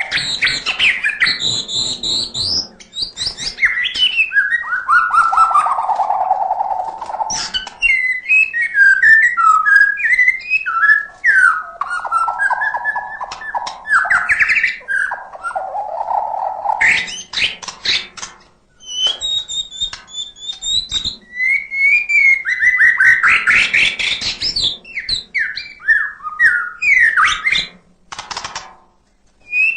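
White-rumped shama (murai batu) singing a long, varied song: rich whistles, fast trills and low warbles mixed with harsh rattling notes and mimicked fill-in phrases, with brief pauses between bursts.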